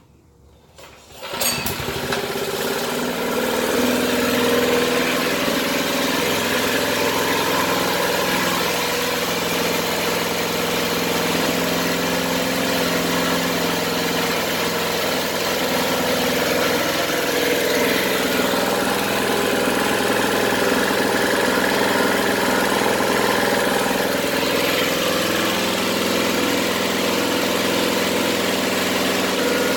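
Predator single-cylinder four-stroke small engine on a minibike starting on the first try about a second in, then running steadily at idle.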